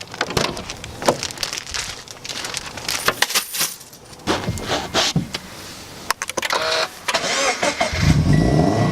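A series of irregular clicks and knocks. Near the end a car engine starts and runs loudly, with a short high electronic beep repeating about every second and a half.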